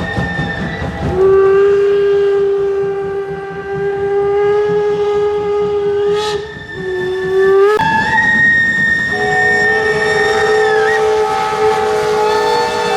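Steam locomotive whistles blowing long, held blasts at different pitches. A lower whistle starts about a second in, a higher one sounds from near the middle, and two or more whistles overlap toward the end.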